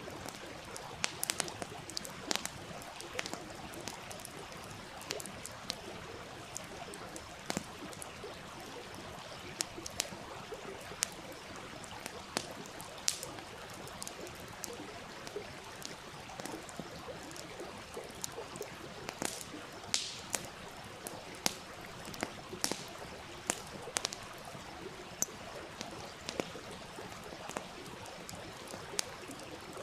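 Outdoor wood campfire crackling, with frequent irregular sharp pops, over the steady rush of a flowing stream.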